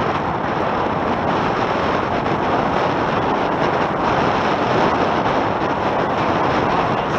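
Steady wind buffeting the microphone, mixed with water rushing past the hulls of a Tornado catamaran sailing upwind.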